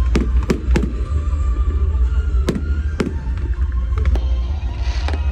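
Fireworks going off: a series of sharp bangs, three in quick succession at the start and more about two and a half, three and four seconds in, with a crackling hiss starting near the end. Music plays underneath.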